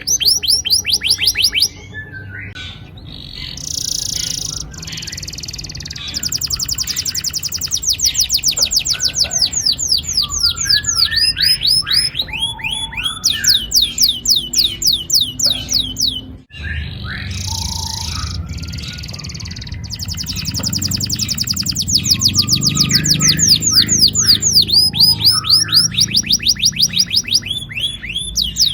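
Domestic canary singing long rolling trills: fast runs of rapidly repeated, downward-sweeping high notes, with a short break about halfway through.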